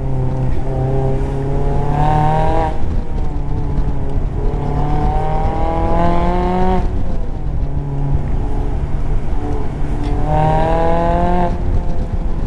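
Mazda MX-5 Miata's four-cylinder engine pulling up through the revs three times, each rise in pitch breaking off at a gear change, heard from the open cockpit with road and wind noise underneath.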